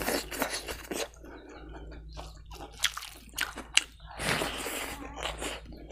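Close-miked wet mouth sounds of eating boiled pork, rice and greens by hand: irregular chewing, smacking and slurping clicks, with a denser noisy stretch about four seconds in as a handful of rice goes into the mouth.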